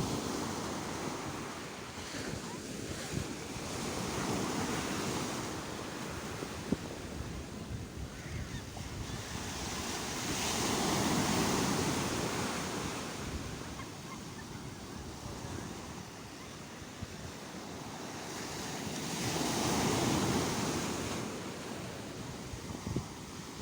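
Sea waves breaking and washing on a shore, the surf swelling and ebbing in slow surges, with the two biggest swells about halfway through and near the end. Wind buffets the microphone.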